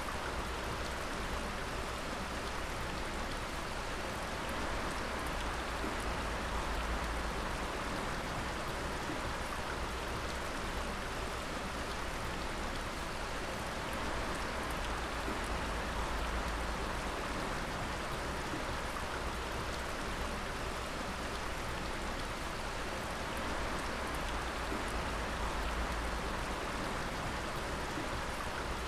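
Water dripping in many drops at once, a steady patter much like light rain.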